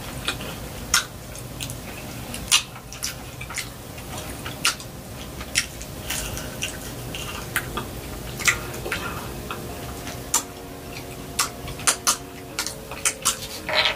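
Close-miked eating: fried chicken being chewed by mouth, with crisp crunches and wet mouth clicks coming irregularly, up to a couple a second.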